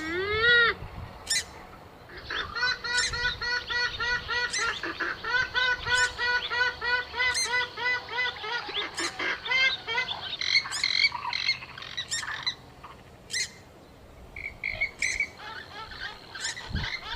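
Purple swamphen calling: a loud arched squawk at the start, then a long run of rapid, evenly repeated honking notes, then scattered harsher calls, with a quieter gap before the calling resumes near the end. It is a recorded lure call.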